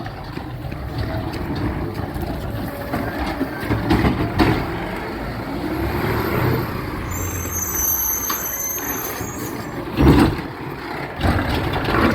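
Garbage truck's diesel engine running, with a rising whine partway through and a high-pitched air-brake squeal a little past the middle. A sudden loud burst of noise comes near the end.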